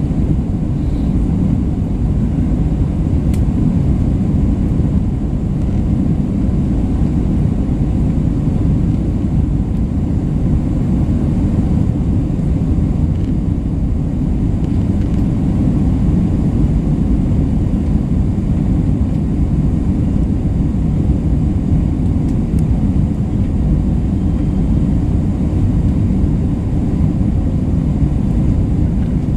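Steady low rumble of an Airbus A320 cabin in flight: engine and airflow noise heard from inside the passenger cabin, unchanging throughout.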